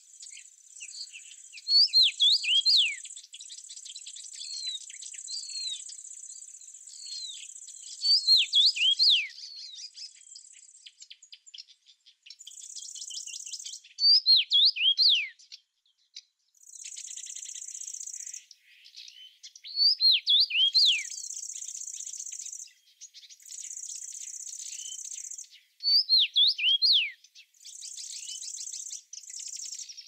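A songbird repeating a short phrase of quick falling chirps about every six seconds, over the steady high buzz of insects that runs in stretches and stops.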